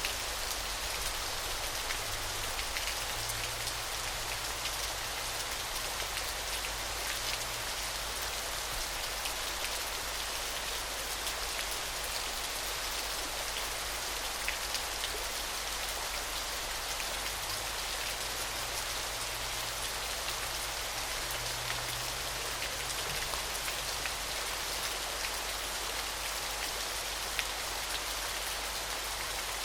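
Waterfall: a steady rush of falling water, an even hiss sprinkled with small splashes.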